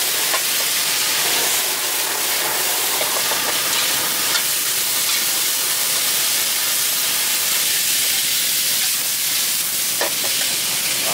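Food frying in hot oil: a steady, even sizzle with a few faint clicks.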